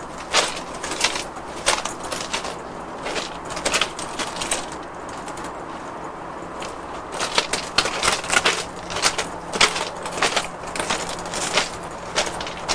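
Footsteps crunching on railway ballast at a steady walking pace, pausing for a couple of seconds midway and then going on.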